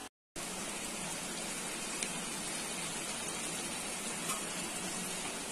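Diced bottle gourd frying in oil and spice paste in a kadhai, a steady sizzle.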